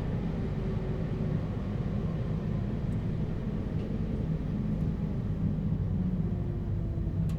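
Interior running sound of a JR Hokkaido 721 series EMU motor car with a Toshiba GTO inverter: a steady low rumble of wheels on rail, with faint inverter tones that come and go, as the train slows on the approach to a station stop.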